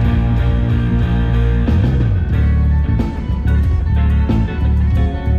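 Live band playing an instrumental passage: guitar over bass guitar and drums, with steady cymbal ticks and a bass slide about two seconds in.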